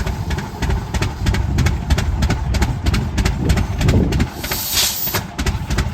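Antique tractor engine running with a rapid, even exhaust beat, and a burst of hiss a little past halfway through.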